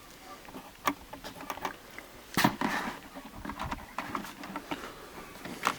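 Plastic seat-back trim panel being handled and pushed onto its clips: several sharp clicks and knocks, the loudest about two and a half seconds in, with faint rubbing between them.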